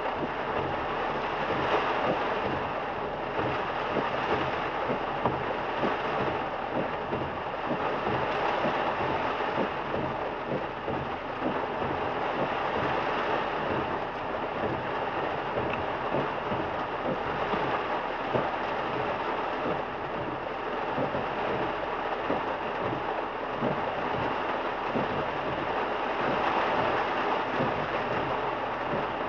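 Car driving through a heavy downpour: a steady dense hiss of rain hitting the car and tyres on the soaked road.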